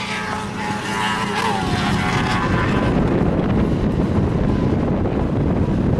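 Racing car engines running on the circuit: a steady, dense rumbling drone that grows louder about two seconds in.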